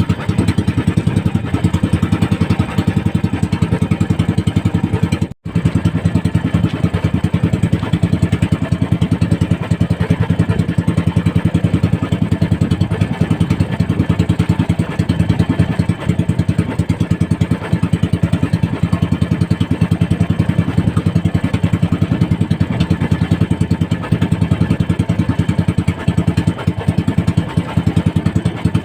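Small fishing boat's engine running steadily at an even speed, with a fast, regular putter. The sound cuts out for an instant about five seconds in.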